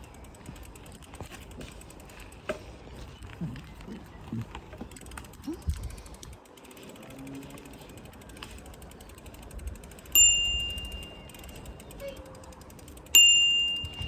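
A bicycle bell rung twice, two single bright dings about three seconds apart, each ringing away over a second. Before them come scattered light clicks and knocks, like a bicycle's freewheel ratchet and parts.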